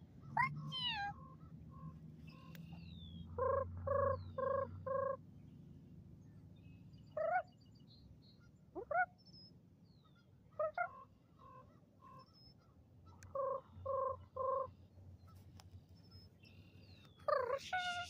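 Birds calling: several mewing calls that slide in pitch, and short runs of three or four evenly spaced calls, with faint thin high whistles between them.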